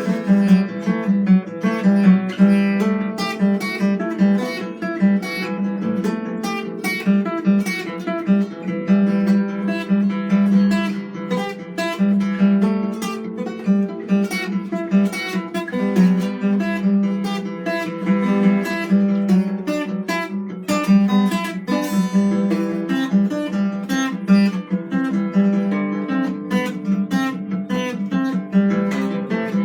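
Improvised music on a plucked string instrument, most likely an acoustic guitar: many quick picked and strummed notes over a steady low note, with no break.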